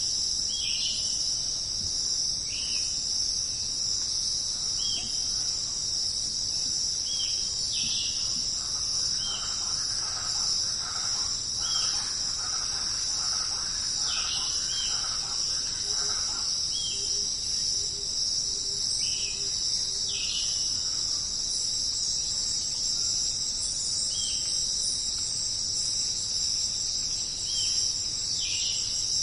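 Jungle insect chorus: a dense, steady high-pitched buzz from many insects. Short chirping calls repeat every second or two over it, and a brief chattering call and a low repeated call come through in the middle.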